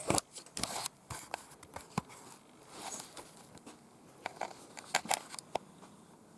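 Scattered light clicks, taps and rustling of close-up handling, with a couple of quick knocks about five seconds in.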